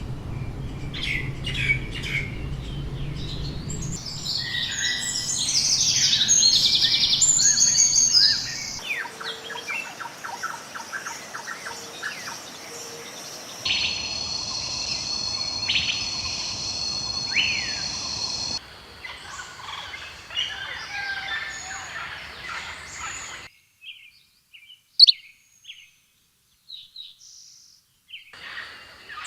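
Songs and calls of several different birds: chirps, trills and whistled notes, in short segments that change abruptly every few seconds.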